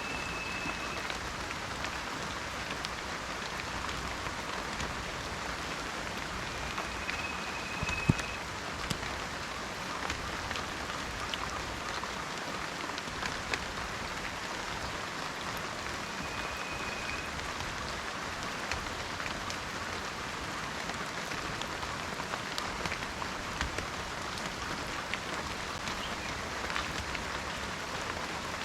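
Steady rain falling in a forest, a dense patter of drops with one louder drop hit about eight seconds in. A bird gives three faint, short whistled notes, spaced several seconds apart.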